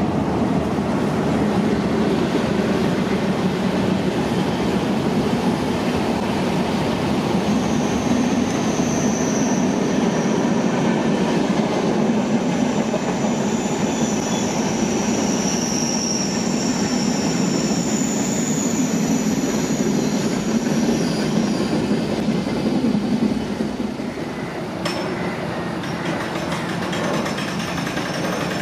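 Train running on the rails, a steady rumble of wheels on track. A thin, high wheel squeal comes in about a third of the way through and fades before the end, and the overall level drops near the end.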